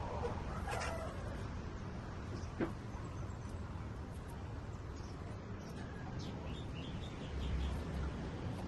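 White-rumped shamas giving a few short, high chirps, clustered past the middle, over a steady low background rumble, with one sharp tick a little before the middle.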